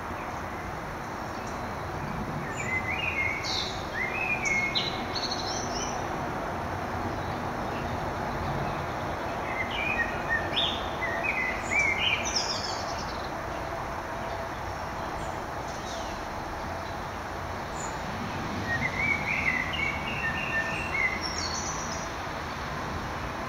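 A songbird singing three short phrases of quick chirping notes, several seconds apart, over steady background noise.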